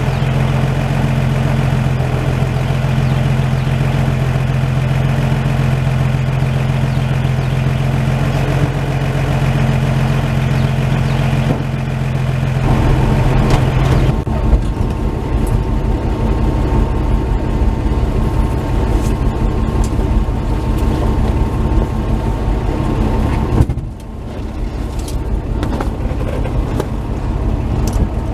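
1949 Chevy truck's engine running, still cold after a start. It runs steadily for the first twelve seconds or so, then turns busier and louder, with a sudden drop about 24 seconds in before it picks up again.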